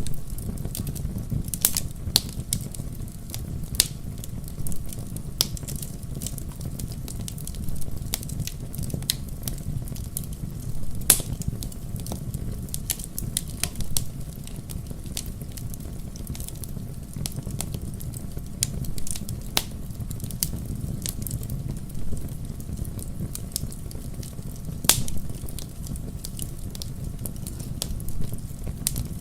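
Wood fire in a fireplace crackling, with irregular sharp pops, a few louder than the rest, over a low steady rumble.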